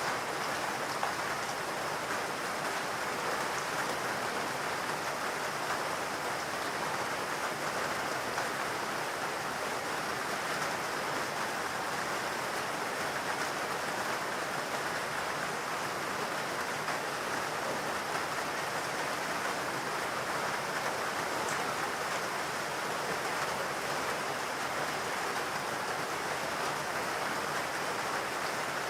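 Steady rainfall, an even hiss of rain with no distinct drops, thunder or other events.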